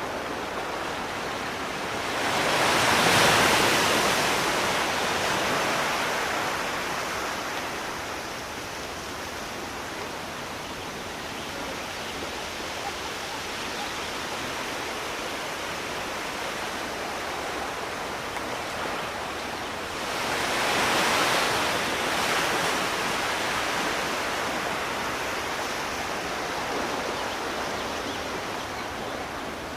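Sea waves breaking and washing on a shore over a steady surf hiss, with two larger waves swelling up and fading, one a couple of seconds in and another about twenty seconds in.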